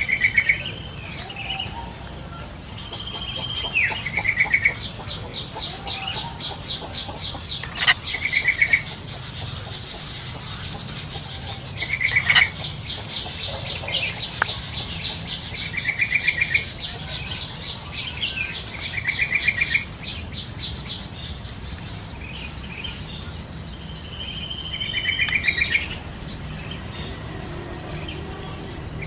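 Yellow-vented bulbuls calling in the wild: short bubbly trilled notes repeated every few seconds, over a fast ticking chatter and some higher chirps from other birds in the first half.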